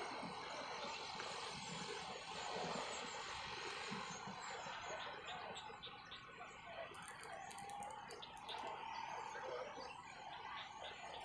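Small birds chirping over a faint, steady open-air background. A short run of quick, faint clicks comes about seven to eight seconds in.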